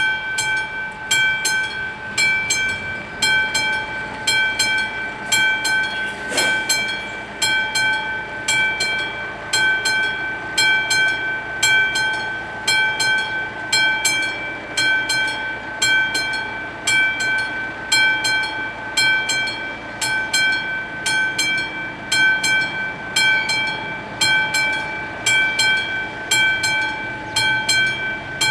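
Level-crossing warning bells starting to ring and going on in a steady, repeated ding, about two strikes a second, each ringing on into the next: the crossing is warning of an approaching train. A single knock about six seconds in.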